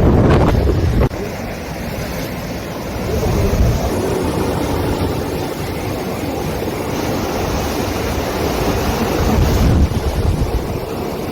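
Sea waves washing against rocks, with wind buffeting the microphone. A loud low wind rumble drops away suddenly about a second in, and the surf swells and eases after it.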